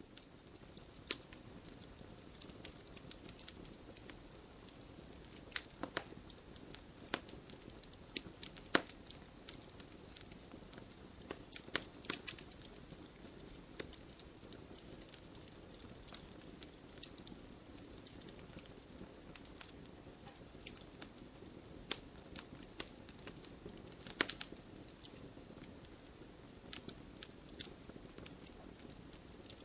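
Wood fire crackling in a fireplace: a steady low hiss with frequent irregular snaps and pops, a few louder ones scattered through.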